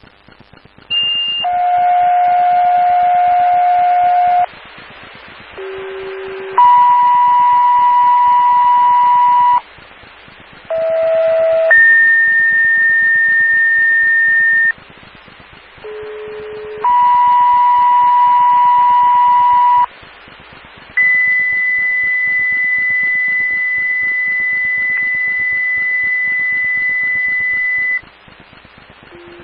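Fire-dispatch two-tone pager tones over a scanner radio: four pairs, each a short tone followed by a steady tone of a different pitch lasting about three seconds, alerting the called departments. These are followed by one steady tone lasting about seven seconds.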